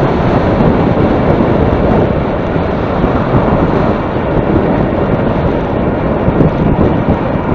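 Strong wind blowing across the microphone: a loud, steady, rumbling noise with no clear tone, fluttering a little in loudness.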